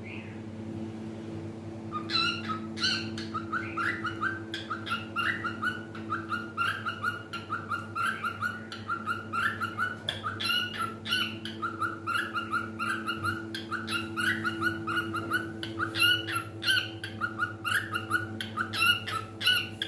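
Cockatiel singing in a rapid string of short chirps, several a second, starting about two seconds in and going on without a break, over a steady low hum.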